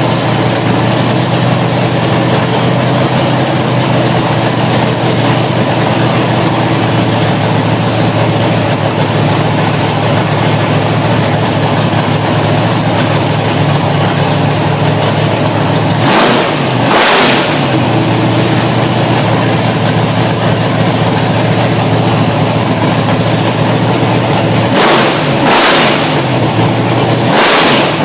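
Big-displacement V8 race engine idling steadily and loudly, with short sharp throttle blips: two a little past halfway, then three more in quick succession near the end.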